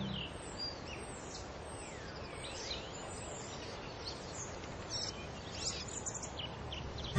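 Birds chirping: many short high chirps and a few sliding whistles over a steady background hiss.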